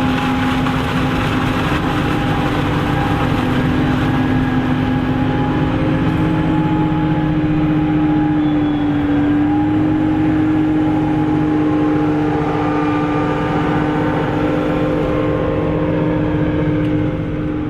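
Heavy farm machinery running hard during corn chopping: a steady, loud engine drone with a humming tone that rises a little in pitch about a third of the way in, then holds.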